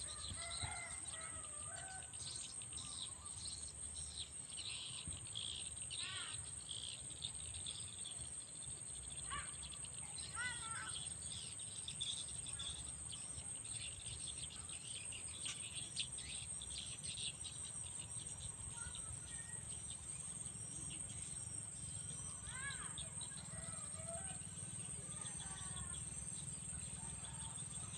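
Tropical forest ambience: a steady, high-pitched drone of insects, with scattered bird chirps and short rising-and-falling calls throughout.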